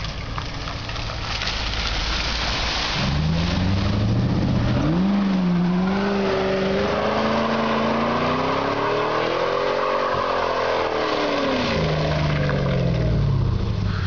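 2000 Pontiac Trans Am's LS1 V8 revving hard under a sudden burst of throttle as the car is spun through a 180 on full steering lock. The revs start climbing about three seconds in, jump again, rise to a peak, then fall away near the end.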